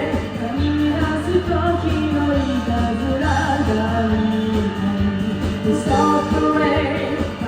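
Pop-rock song with a sung vocal line over a band backing track of bass, drums and guitars.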